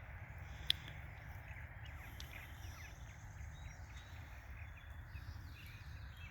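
Quiet outdoor ambience with a steady low rumble and a few faint, short bird calls, and one sharp click about a second in.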